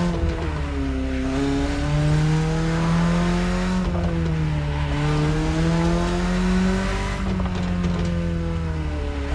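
BMW E30's engine running as the car is driven, its pitch sliding up and down with the revs. The pitch falls about a second in and again around four seconds, then climbs, and dips once more near the end.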